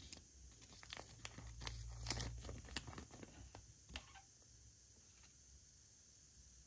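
Packaging being crinkled and torn by hand, with scattered crackles and clicks that stop about four seconds in.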